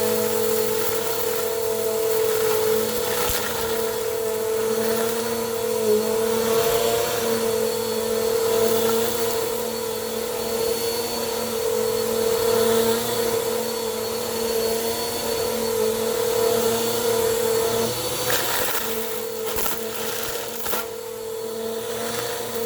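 Bissell PowerForce Compact vacuum cleaner running steadily with an even motor whine. A few short crackles come near the end, as debris is sucked up.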